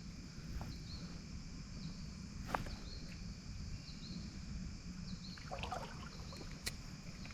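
Faint outdoor creek ambience: a low steady rush, with short high chirps repeating through it and two sharp clicks, about two and a half and six and a half seconds in.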